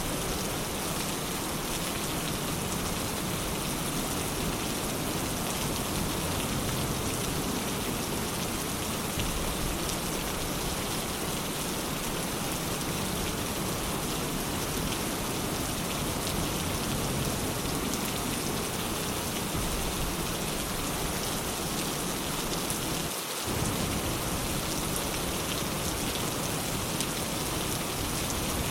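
Steady, heavy rain pattering on a surface, an even wash of noise that briefly thins for an instant about four-fifths of the way through.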